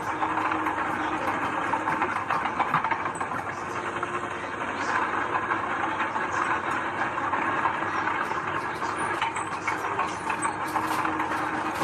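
Heavy diesel earthmoving machinery running steadily, with a continuous clatter of small rattles and clanks over the engine.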